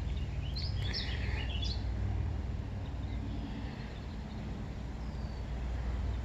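A small bird gives a quick run of high chirps between about half a second and two seconds in, then a single faint thin whistle near the end, over a steady low rumble.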